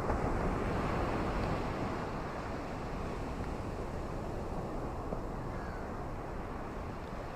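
Ocean waves washing onto a beach: a steady rushing surf, a little louder at the start and easing off after a couple of seconds.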